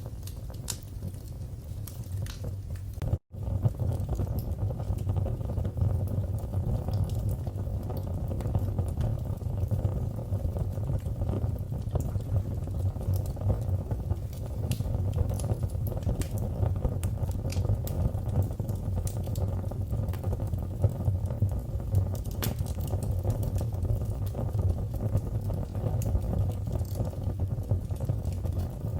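Wood fire crackling and popping over a steady low rumble of flames. The sound cuts out for an instant about three seconds in, then carries on slightly louder.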